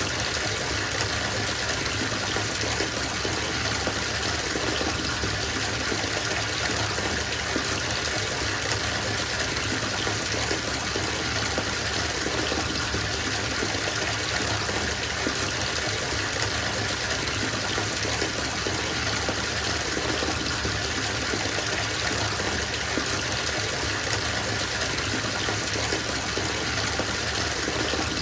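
Water from a bathtub faucet running steadily into a filling tub: an even, unbroken rush of water.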